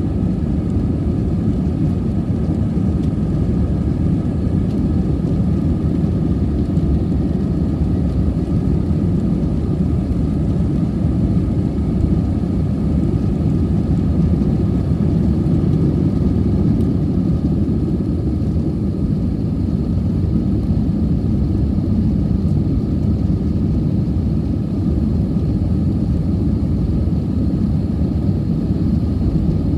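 Steady low rumble of an Airbus A320's jet engines and airflow heard from inside the passenger cabin, with faint steady whines above it.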